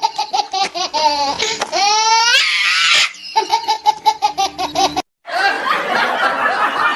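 Rapid, high-pitched laughter in quick, even 'ha' beats. About a second and a half in, a wavering tone slides up through it, then the laughter resumes and cuts off abruptly about five seconds in to a noisier, jumbled stretch.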